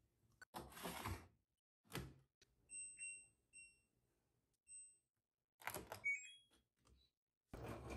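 A sliding scrape and a click, then an LG front-loading washing machine's control panel beeping four short times as the wash temperature button is pressed. Another clatter with a quick run of beeps follows about six seconds in.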